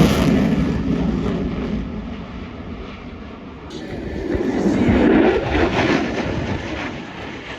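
Fighter jet engine roar, loud at first and fading away, then swelling again about five seconds in and fading as the aircraft passes.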